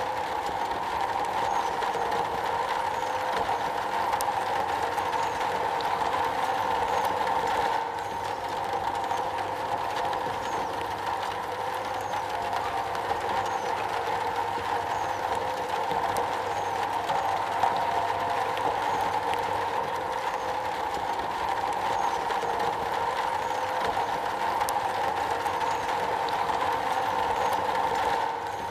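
Steady rain falling on a metal roof, an even patter with no let-up.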